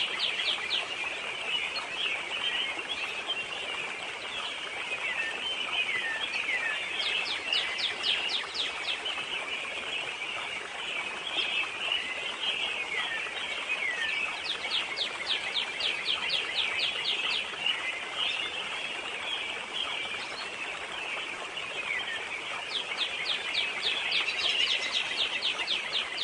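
Forest birdsong: one bird repeats a rapid trill of short notes lasting about two seconds, roughly every eight seconds, among scattered short falling chirps from other birds, over a steady outdoor hiss.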